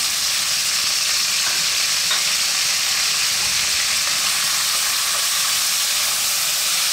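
Curry leaves, pandan leaves, green chillies and garlic-ginger paste sizzling steadily in hot coconut oil in a large aluminium wok, stirred with a wooden spatula.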